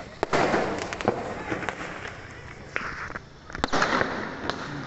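Fireworks going off: a sharp bang followed by about a second of crackling, twice, once just after the start and again about two-thirds through.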